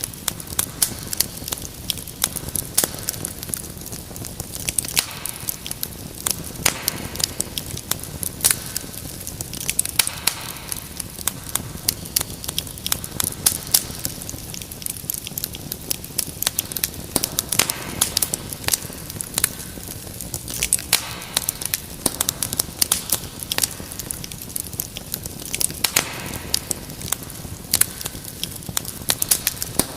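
Wood fire in a fireplace crackling, with many irregular sharp pops and snaps over a steady soft hiss.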